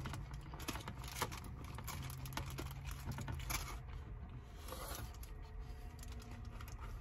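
Close-up chewing and biting into a fried catfish and shrimp po' boy: a run of small irregular mouth clicks and crackles, over a faint steady low hum.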